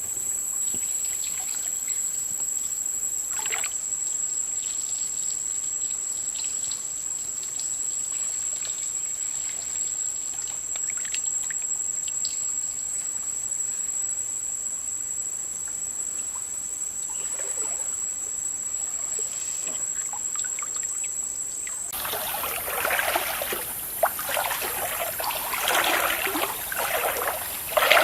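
Water splashing and trickling over a steady high-pitched insect drone, like crickets. A little over 20 seconds in, the insect drone stops and the splashing becomes much louder and busier.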